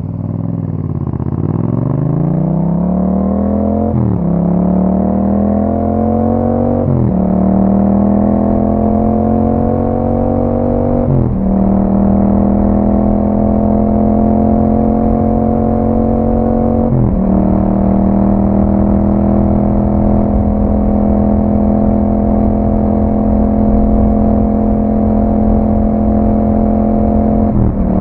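Yamaha MT-07's 689 cc parallel-twin engine through an Akrapovic exhaust, pulling away and accelerating through the gears. The pitch climbs in each gear and drops sharply at each of five upshifts, then holds nearly steady in a high gear over the last ten seconds.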